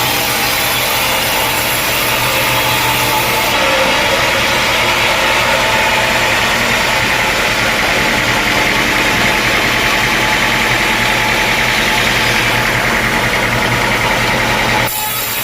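Sawmill engine running steadily with a constant low hum. The sound changes abruptly just before the end.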